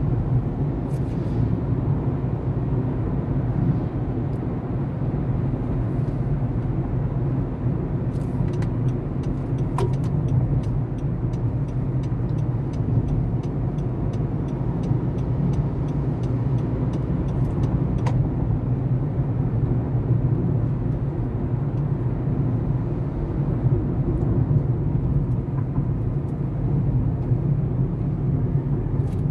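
A motor vehicle on the move: a steady low rumble of engine and road noise, with a few faint clicks.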